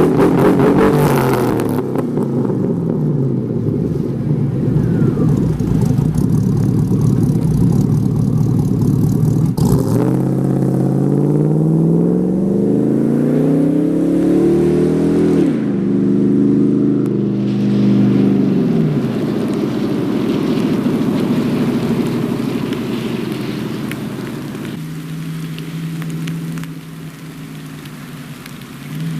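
2005 Hummer H2's rebuilt 6.2-litre GM V8 (bored LQ4 with a stage 2 cam) running through a true-dual 3-inch aFe catback exhaust under acceleration. The revs fall at first, climb steeply again, drop sharply at a gear change about halfway through, then fall away to a low steady note near the end.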